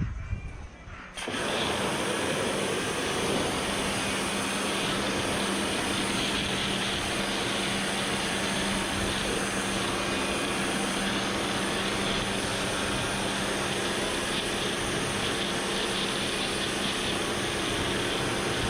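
Kärcher pressure washer running and spraying: a steady hiss of high-pressure water over the even hum of its motor-driven pump, starting about a second in.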